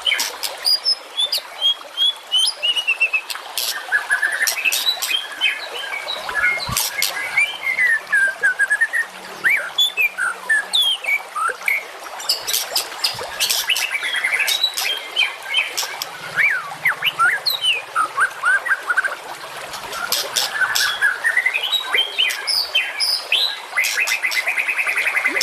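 Songbird masteran recording: a dense, unbroken run of varied whistles, quick rising and falling notes and rapid trills, laced with sharp, very high clicking notes.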